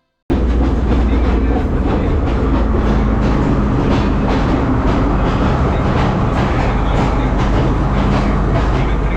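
Sri Lanka Railways S14 diesel multiple unit running along the track: a steady low drone with faint wheel clicks. It cuts in suddenly just after the start.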